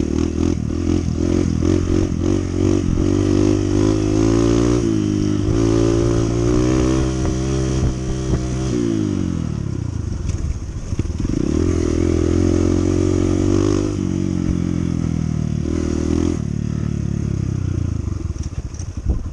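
Honda CT125's single-cylinder engine pulling under load. The revs climb, fall away about eight seconds in, build again, then drop twice more and turn low and uneven near the end.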